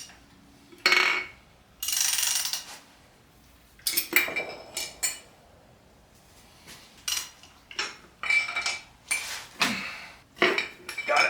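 Metal hand tools and engine parts clinking and scraping in a dozen or so short, irregular bursts, some of them ringing, as pistons are worked out of a Nissan VG30DETT V6 block.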